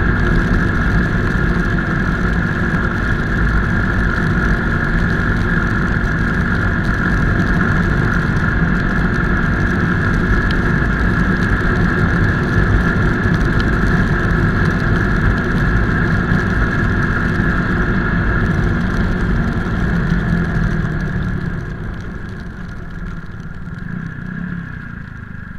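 Motorcycle running steadily on the road with a dense low rumble, becoming quieter near the end.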